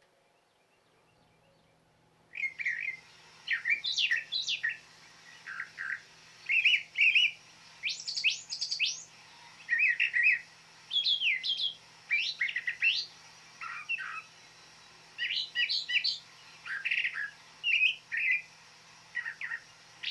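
Recorded brown thrasher song played back: after about two seconds of quiet, a long run of short, varied chirping phrases follows one after another.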